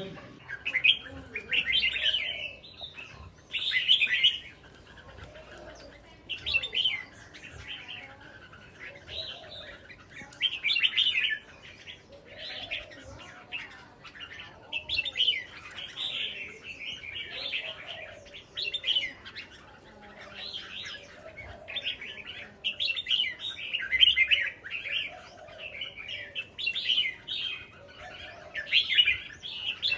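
Red-whiskered bulbuls singing: short, bright, warbling phrases following one another every second or two without a break, a few of them louder than the rest.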